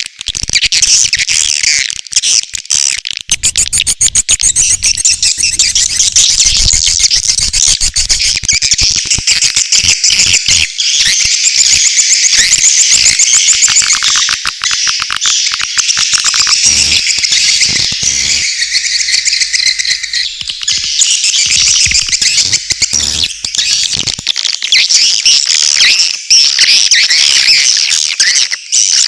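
Swiftlet lure-call recording: dense, continuous high twittering and chirping of edible-nest swiftlets, the kind of call played to draw swiftlets into a nesting house.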